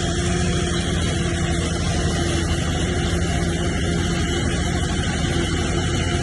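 Heavy diesel engine of a bulldozer running steadily under load, with a continuous low drone and no changes in speed.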